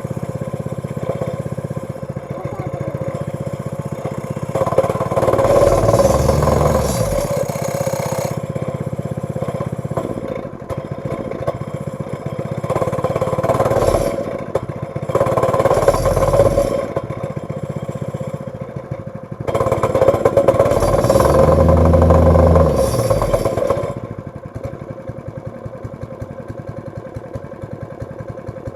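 Chainsaw engine running cold, idling and revved up four times. Each rev rises and falls back over a few seconds, and the last and longest comes about two-thirds of the way through before it settles back to idle.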